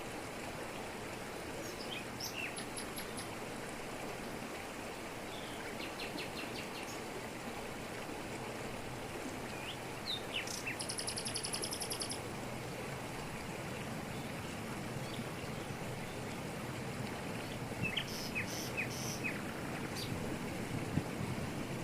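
Steady rush of a waterfall, with birds calling over it: short chirps, a run of quick notes about six seconds in, a high rapid trill for a couple of seconds around the middle, and more chirps near the end.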